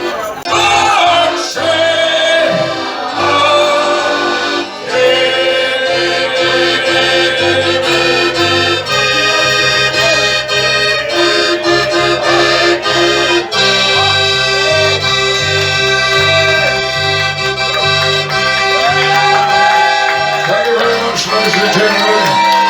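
Accordion playing a lively live tune, the right hand holding sustained reedy notes over a steady alternating bass-and-chord accompaniment from the left-hand buttons.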